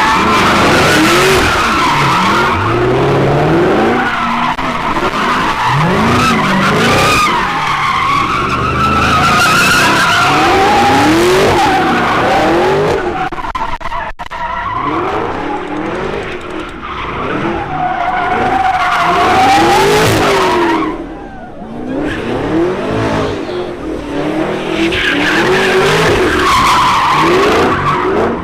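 Car tyres squealing in long skids while the engines rev up and down again and again, with a brief lull about three quarters of the way through.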